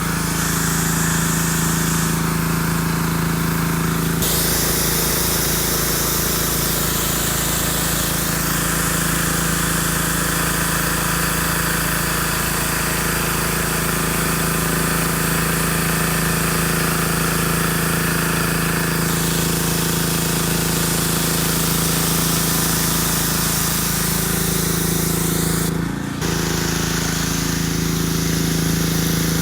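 Diesel engine driving a high-pressure car-wash pump, running steadily with a strong even hum and a hiss of spray on top. The hiss changes character about four seconds in and again around nineteen seconds, and the whole sound dips briefly a few seconds before the end.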